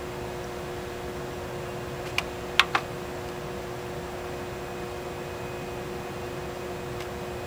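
Chiller plant machinery running with a steady hum, two constant tones held over an even rushing noise. Three short, sharp clicks come close together a little over two seconds in.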